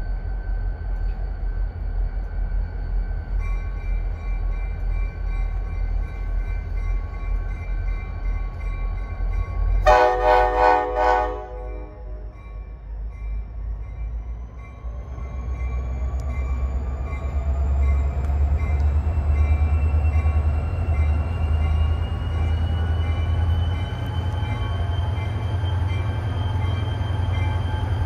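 NJ Transit diesel locomotive approaching at the head of a rail train, its engine a steady low rumble. About ten seconds in it sounds its horn in one short blast of about a second and a half; after that the rumble grows louder, with faint tones slowly rising in pitch.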